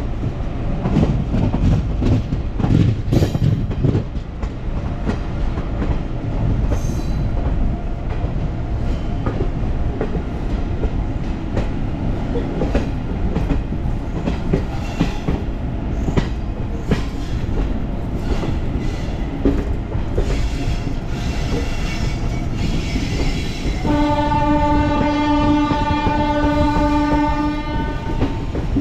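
Train moving through a railway station: a steady low rumble with the wheels clicking over the rail joints. Near the end a locomotive horn sounds one long steady blast of about four seconds.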